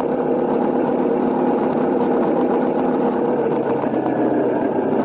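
Honda CRF250L's single-cylinder four-stroke engine running at a steady speed, with no revving up or down.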